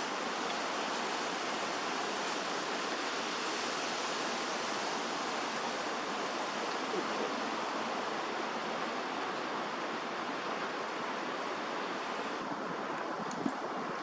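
Steady, even rushing outdoor background noise, with one faint short tick near the end.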